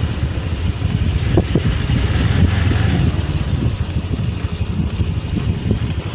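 Motorcycle engine running at low revs, heard from the rider's own bike, with an uneven low rumble.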